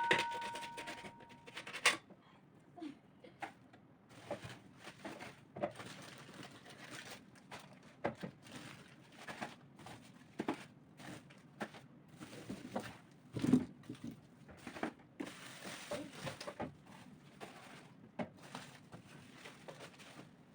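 A short chime-like tune fading out in the first two seconds, then scattered knocks, clicks and rustling in a small room, with one louder knock about halfway through.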